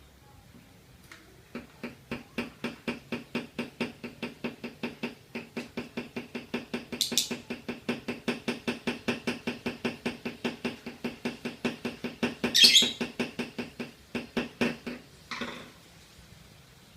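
Lovebird ngekek: a long chattering run of rapid, evenly spaced 'kek' notes lasting about twelve seconds, with two sharper shrill squeaks mixed in before it stops near the end.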